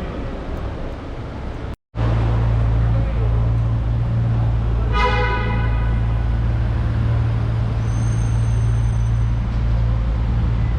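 A supercar's engine idling close by with a deep, steady rumble. About halfway through, a car horn gives one short toot.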